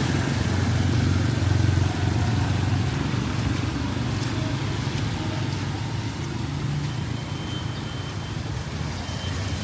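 Street traffic: a motor vehicle's engine running close by, a low steady drone that eases off slowly over the seconds.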